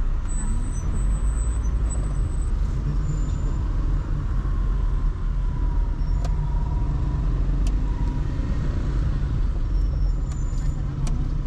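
Car driving through city traffic: a steady low engine and road rumble, with a faint wavering whine in the middle and a couple of light ticks.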